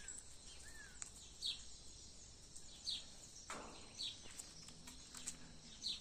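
Small birds chirping, a short high call repeating about every second and a half over faint rural background noise.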